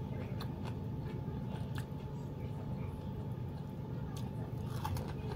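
A person chewing a mouthful of rice eaten by hand with her mouth closed, with a few scattered soft mouth clicks over a steady low hum.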